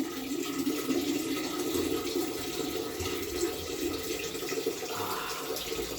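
A man urinating into a toilet bowl: a steady stream splashing into the water.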